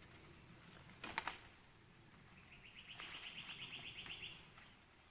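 A bird's rapid, evenly pulsed high trill lasting about two seconds, starting near the middle. About a second in, a short crackle of leaves and stems being plucked by hand.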